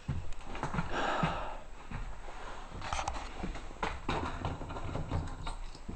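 Irregular footsteps and thumps with rustling and clicks, from a person moving about and handling things.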